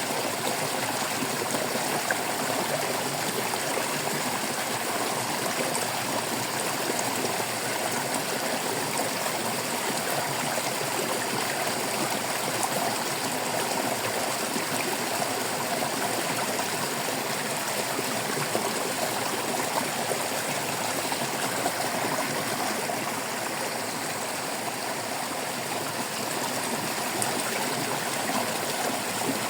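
Stream water babbling and trickling steadily.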